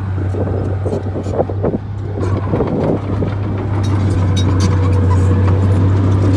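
Bulldozer's diesel engine running with a steady deep drone, under scattered metallic clanks and rattles. It gets a little louder about three seconds in.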